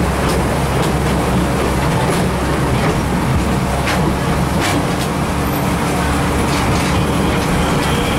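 Passenger train running along the track: a steady rumble and rattle of wheels on rails, with a few sharp clicks.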